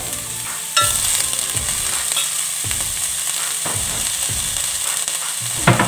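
Shredded cabbage sizzling in hot oil in a metal pot, the sizzle growing louder about a second in, while a metal spoon stirs it with scrapes and knocks against the pot; a sharp knock near the end.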